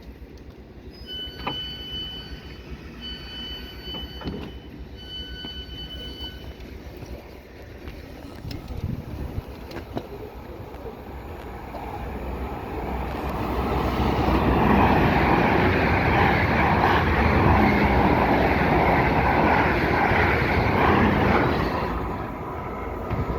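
Train passing through the station, its noise building from about twelve seconds in, staying loud for about seven seconds, then falling away. Near the start there are three short, high-pitched beeps in a row.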